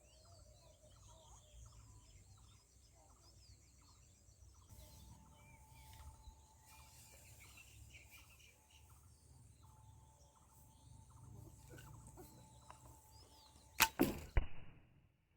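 Homemade wooden pistol crossbow firing near the end: two sharp cracks close together, the string's snap and the bolt striking. Before that, only faint background sound.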